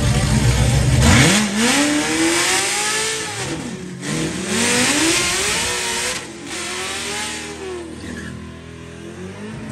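C7 Corvette's V8 revved hard during a burnout, with the rear tires spinning. The engine climbs sharply about a second in, then rises and falls several times over a hiss from the spinning tires, and eases off near the end.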